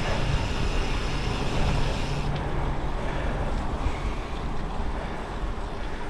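Goodyear Connector gravel tyres rolling steadily along a gravel track under a bike at speed, with wind rushing over the microphone.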